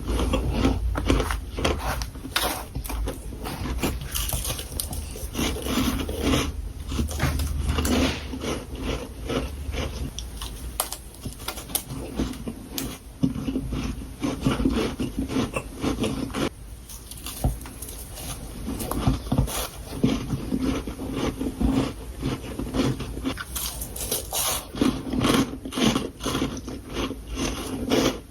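A person biting and chewing powdery freezer frost, close to the microphone, with many quick, irregular crunches in a row.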